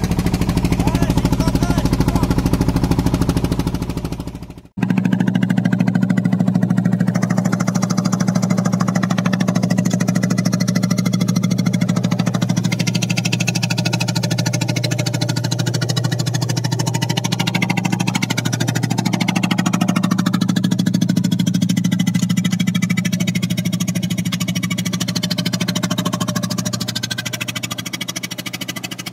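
Small fishing boat's engine running steadily under way. About five seconds in the sound dips and cuts, then the engine note runs on without its deepest rumble.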